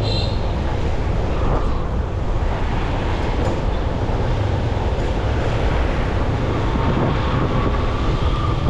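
Steady wind rush on the microphone over motorcycle and road noise while riding through city traffic.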